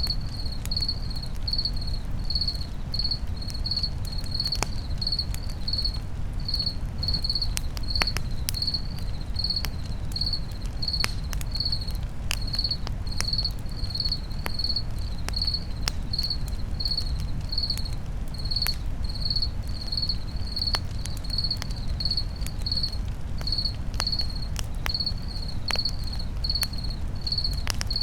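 A cricket chirping steadily, about two chirps a second, over the crackle of a campfire: scattered sharp pops and a low steady rumble.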